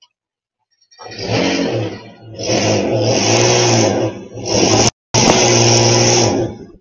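A small motor running loudly in three stretches, revving up and down in pitch, with a sudden break about five seconds in.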